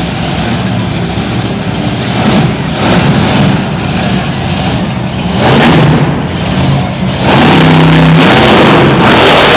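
Monster truck engine revving in short loud bursts, then held at a sustained loud roar from about seven seconds in.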